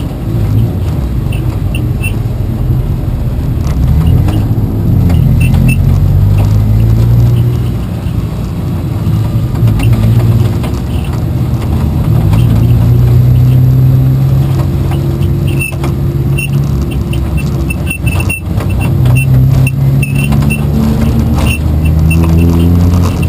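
Race car engine running hard, its pitch climbing for several seconds at a time and dropping back at shifts or lifts, with light rattling clicks over it.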